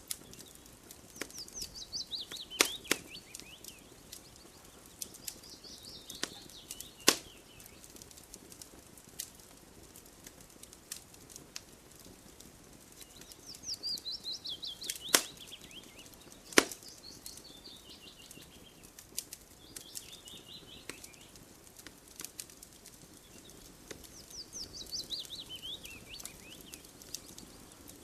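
Campfire crackling, with scattered sharp pops of burning wood, the loudest a handful of single snaps. Over it a songbird sings a quick trill that falls in pitch, repeated every few seconds.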